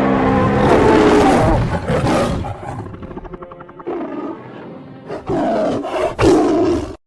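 A creature-roar sound effect: several loud, rough roars and growls one after another, broken off suddenly at the end.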